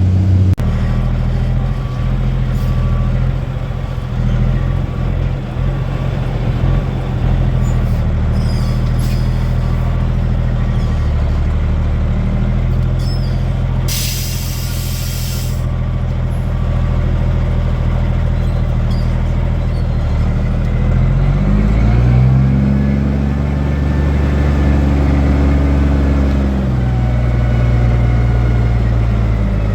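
Cummins M11 inline-six diesel of an International 8100 dump truck running, heard from inside the cab, with a backup beeper repeating through the first several seconds as the truck reverses. About halfway through, the air brakes let out a short, sharp hiss of air. Later the engine revs up for several seconds and then drops back.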